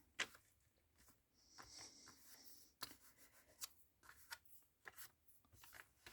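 Near silence with faint handling of paper and card: scattered light taps and clicks, and a brief soft rub about a second and a half in, as a freshly glued piece is pressed down.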